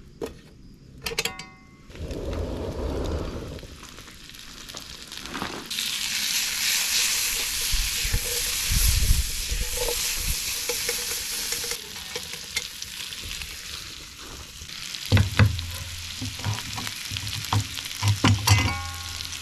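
Bell peppers sizzling in a hot pan on a campfire. The sizzle swells loudest in the middle stretch, with scattered knocks and scrapes of a utensil against the pan.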